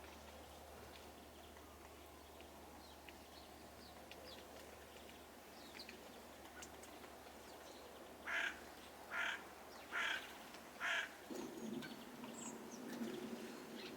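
Four harsh, loud bird calls about a second apart, over faint high chirps of small birds; a low rumble comes in near the end.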